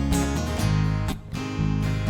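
Instrumental song intro: acoustic guitar strumming chords, with a brief dip between strums about a second in.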